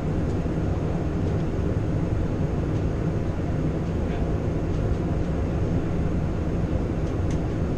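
Steady low rumble of engine and airflow noise played by an Airbus A350 full flight simulator's sound system, heard in the cockpit during final approach.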